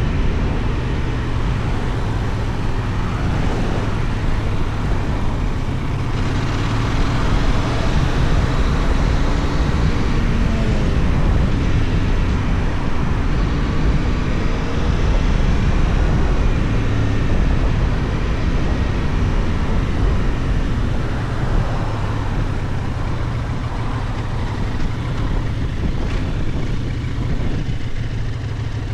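Benelli Tornado 550's 554 cc 270° parallel-twin engine running under way, its pitch rising and falling as the throttle changes, under a steady rush of wind noise.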